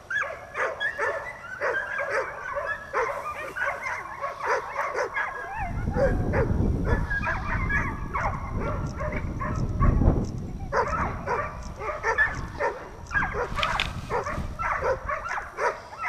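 Brittany dog whining and yipping over and over, several short high calls a second. A low rumble runs under it from about six to eleven seconds in.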